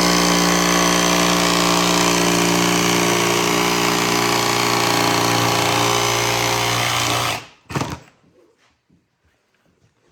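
Electric power tool running steadily at full speed, then switched off and stopping about seven seconds in, followed by a single knock.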